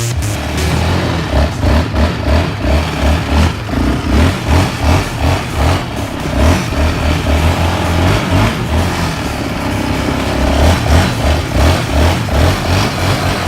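Small off-road vehicle engine running, its loudness pulsing evenly about twice a second.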